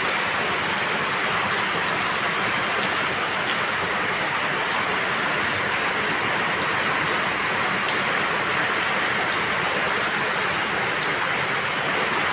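Rain falling steadily, an even hiss. A brief high chirp sounds about ten seconds in.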